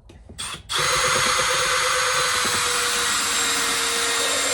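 Power drill given a short squeeze of the trigger, then run steadily for about four seconds before stopping.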